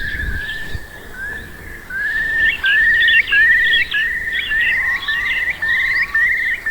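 Eurasian curlew calling: a series of rising, trilled notes, repeated about every half second from about two seconds in, in the curlew's bubbling song. Fainter, higher chirps sound over it.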